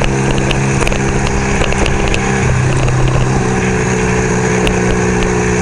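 1975 Kawasaki KZ400 parallel-twin motorcycle engine running at a steady speed while the bike is ridden, with wind rumble on the microphone.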